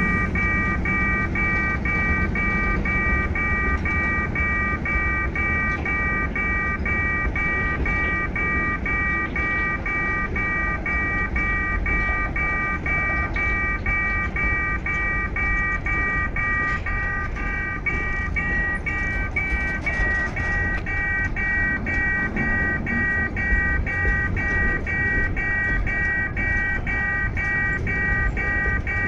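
Loaded freight wagons rolling past with a low rumble and wheel clatter, under the rapid, evenly repeating electronic beeping of a level-crossing warning signal.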